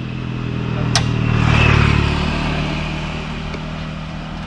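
Small car engine idling steadily, with a sharp click about a second in as the bonnet's safety catch is released and the bonnet lifted. A swell of louder engine noise builds and then slowly fades over the next couple of seconds.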